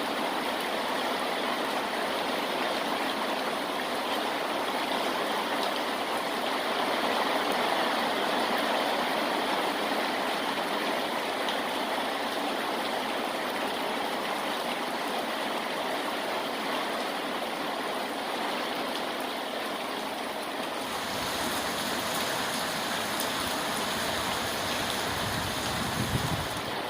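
Steady rainfall, an even rushing hiss of water. About two-thirds of the way through the sound shifts, with a deeper low rumble joining it.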